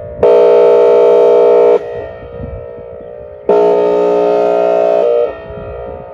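Outdoor tornado warning siren sounding its air-horn signal as a drill: loud, steady, horn-like chord blasts about one and a half seconds long, twice, with a third starting near the end. An echo rings out in the gaps between blasts.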